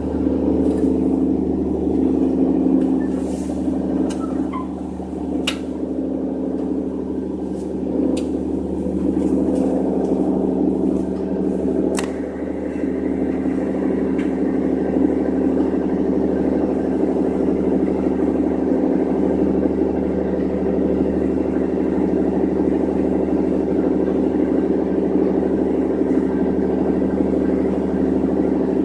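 An engine running steadily at a constant speed, with a few sharp clicks in the first twelve seconds.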